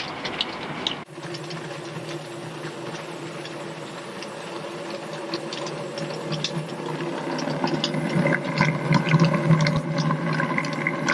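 00 gauge model locomotive running on the track: a steady motor and gear hum with scattered clicks of the wheels over the rail joints, growing louder about eight seconds in.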